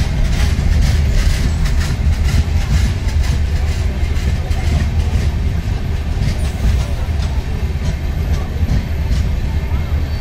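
Passenger train coaches rolling slowly along the adjacent track: a steady low rumble with wheels clicking over rail joints. The clicks come thick in the first half and thin out after about six seconds.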